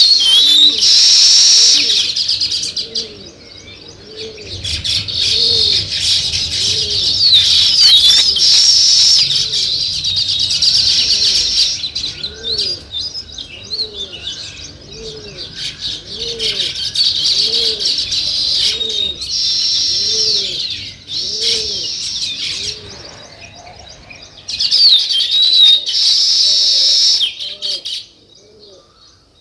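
A flock of sparrows chirping busily in dense overlapping high chirps. Under them a dove coos a low note that repeats steadily, about once a second. The chirping thins out near the end.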